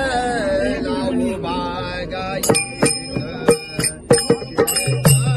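A Marathi devotional abhang being sung: one voice draws out a long sung line, then from about two and a half seconds in, small hand cymbals strike in a steady rhythm with bright ringing, and a deep low note joins near the end.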